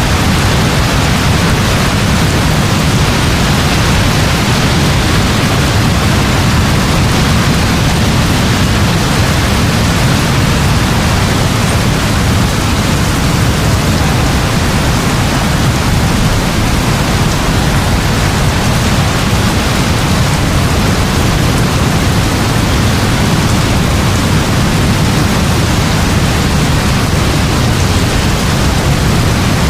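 Heavy rain falling steadily as a dense, even hiss over a constant low rumble, with no separate thunderclaps.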